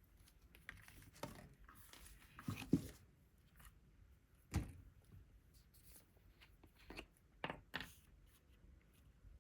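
Paper and cardstock pieces being handled on a work surface: scattered rustles, light taps and a few soft thumps, the loudest a little under 3 s and about 4.5 s in.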